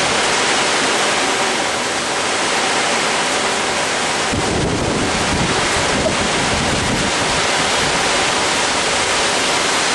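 Heavy rain pouring down in a thunderstorm, a steady loud hiss. A low rumble swells about four seconds in and fades by about seven.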